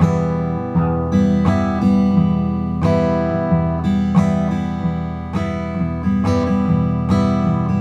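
Acoustic guitar playing a slow, even strumming pattern: the thumb picks the bass strings, alternating with index-finger down and up strokes across the chords.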